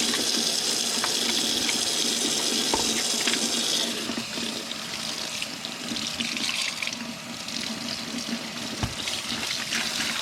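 Tap water running into a sink and splashing over and through the body of an LG A9 cordless stick vacuum as it is rinsed. The stream is steady at first, then about four seconds in it turns quieter and more uneven, with a few light knocks.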